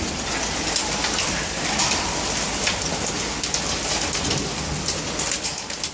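Hailstorm: dime-size hailstones pelting down with heavy rain, a dense steady hiss studded with many sharp ticks of stones striking surfaces.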